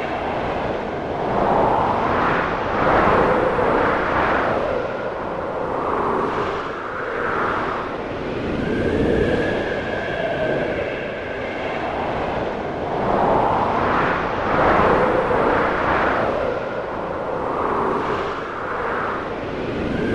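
Snowstorm wind howling, rising and falling in gusts every few seconds, with a thin whistling tone at times.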